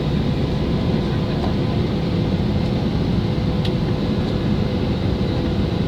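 Steady cabin noise of a Boeing 737-800 taxiing: its CFM56 engines at low thrust and the cabin air system make an even low rumble with a faint steady hum.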